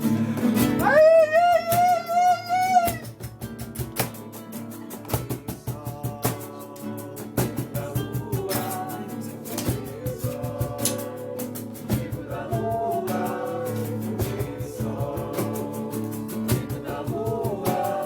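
Acoustic guitar strumming with singing: about a second in a voice holds one long, wavering note for about two seconds, then the guitar plays on with softer sung lines over it.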